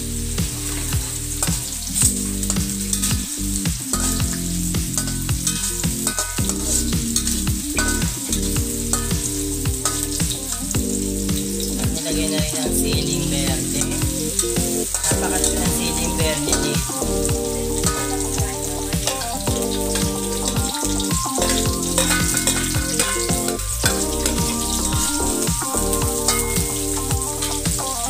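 Garlic and onion sizzling as they sauté in hot oil in a steel wok, with a metal spatula scraping and tapping the pan as it stirs.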